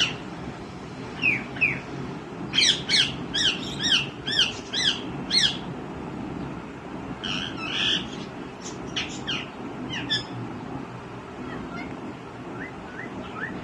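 Green ringneck parrot squawking: a quick run of about eight sharp, repeated calls, then scattered single calls that grow fainter near the end.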